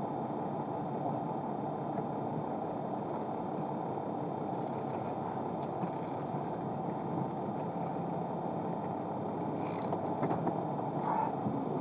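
Steady engine and road noise of a car running, heard from inside the cabin through a dash camera's microphone, with a few faint clicks near the end.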